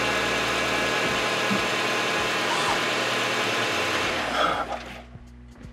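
Hyundai Tucson's engine idling steadily, then switched off about four seconds in, its sound dying away over the next second.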